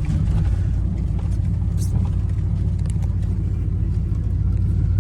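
Truck driving on a rough dirt track: a steady low rumble of engine and tyres, with a few faint rattles.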